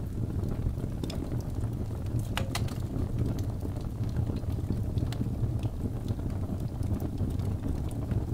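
Birch-log fire burning in a fireplace: a steady low rumble of flame with scattered sharp crackles and pops, a few coming close together about two and a half seconds in.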